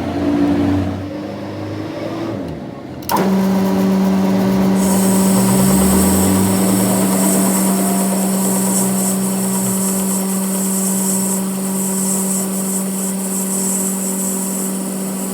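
A low, uneven rumble, then about three seconds in a machine starts abruptly and runs with a steady hum and a high whine.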